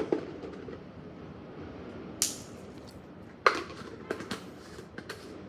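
A dog chewing a dental stick: a handful of irregular sharp crunches and clicks, the loudest about two seconds and three and a half seconds in.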